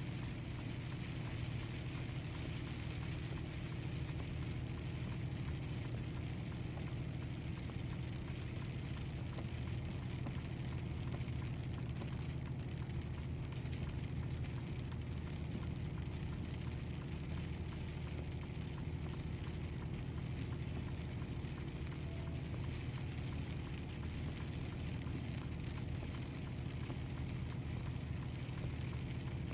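Rain falling steadily on a moving semi-truck cab, heard inside over a steady low hum of engine and road noise.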